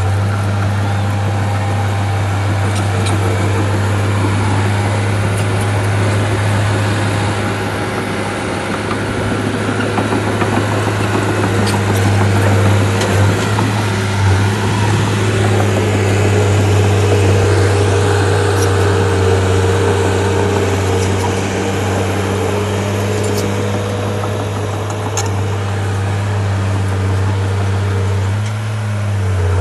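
Heavy diesel engine of a crawler bulldozer running steadily with a low drone, growing a little louder and strained through the middle, dipping briefly near the end, with a few faint clicks over it.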